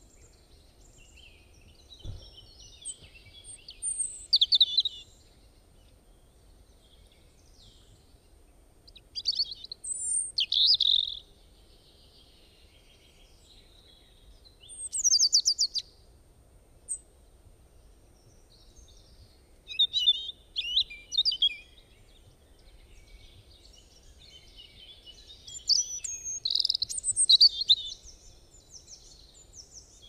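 A songbird singing in five short, high-pitched, warbling phrases a few seconds apart, with pauses between them, over a faint low background rumble.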